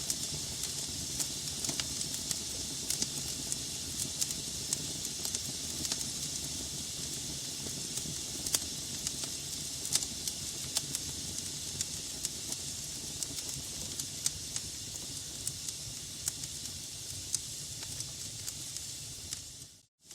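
Wood fire burning in a fireplace: a steady hiss with frequent sharp crackles and pops from the logs. Near the end it briefly fades out to silence and comes back.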